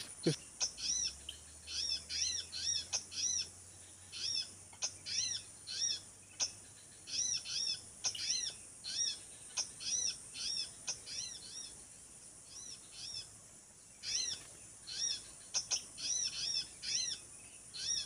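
Small songbird calls: short, high, arched chirps repeated in quick clusters of two to five, with a lull for a few seconds past the middle, over a faint steady high hiss.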